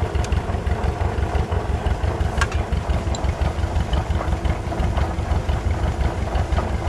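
John Deere 60 two-cylinder tractor engine idling with an even, pulsing beat, running on questionable gas.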